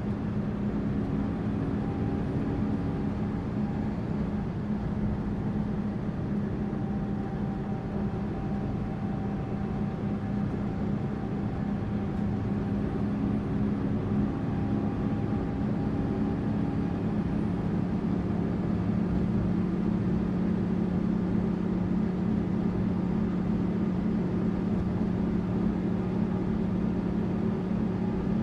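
Tourist bus engine and road noise: a steady low drone with a few steady hum tones, a little stronger in the second half.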